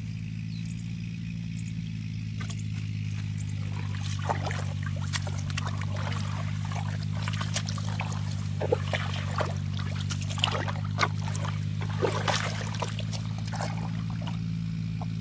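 Splashing and trickling in shallow muddy water, with a run of short sharp splashes and clicks from about four seconds in, over a steady low drone.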